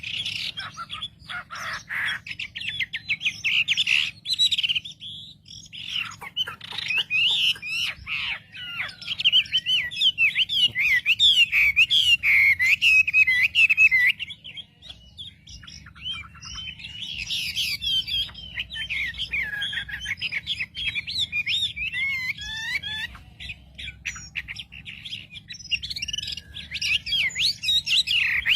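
Wambi bird singing: rapid, busy strings of warbled chirps and twitters, pausing briefly twice, over a faint steady low hum. The song is used as a lure (pancingan) call to provoke other wambi birds into singing.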